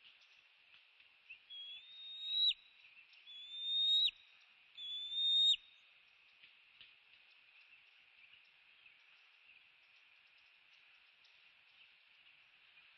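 A bird whistling three clear notes about a second and a half apart, each rising in pitch and getting louder before breaking off sharply, over a faint steady high hiss.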